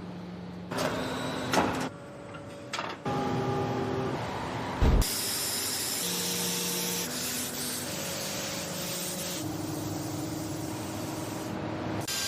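Compressed-air spray gun hissing steadily from about five seconds in, just after a sharp knock. Before that, short stretches of mechanical noise with steady hums.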